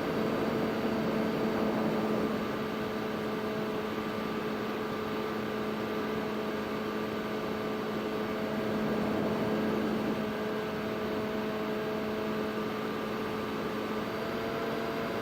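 Steady hiss with a constant hum of several tones from an FPV quadcopter, swelling slightly near the start and again about two-thirds of the way through.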